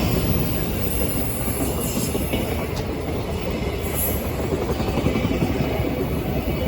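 Freight wagons of a train hauled by a JR Freight EF210 electric locomotive rolling past at speed: a steady, loud rumble of steel wheels on the rails, with a short high hiss about four seconds in.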